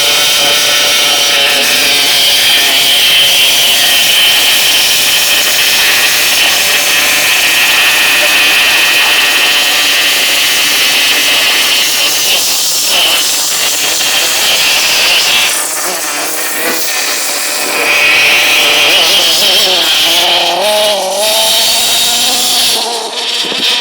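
CEN radio-controlled truck's motor running hard with a high, buzzing whine whose pitch rises and falls as the throttle is worked.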